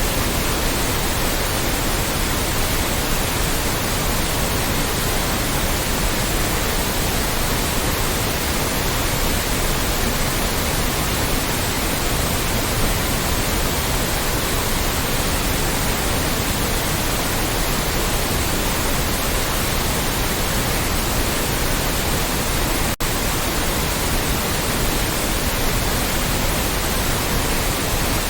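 Loud, steady white noise: an even hiss spread across all pitches, with a split-second gap late on.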